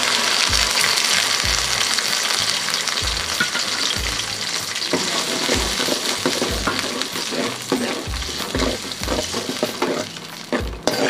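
Onion-tomato paste sizzling in hot oil in a steel kadai, the sizzle loudest at first and slowly fading. From about halfway, a steel ladle scrapes the pan in repeated strokes as the paste is stirred.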